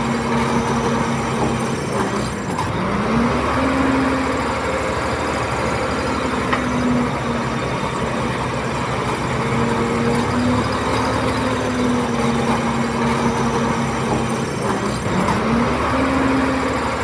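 Komatsu D31P bulldozer's diesel engine running steadily under work. Its pitch sags and recovers twice, about two seconds in and again near the end.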